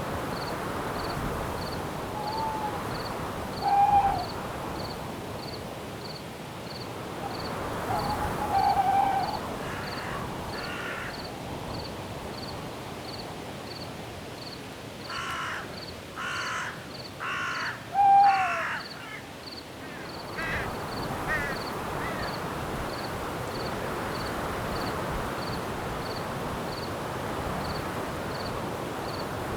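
Night-forest ambience: a steady rustling, breezy background with a cricket chirping regularly, about once every 0.7 seconds. Over it a bird calls a few times, and around the middle gives four loud, harsh, cawing calls in quick succession.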